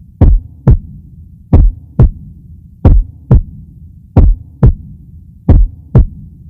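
Heartbeat sound effect: double thumps, a stronger beat followed by a second about half a second later, repeating about every 1.3 seconds over a low steady hum.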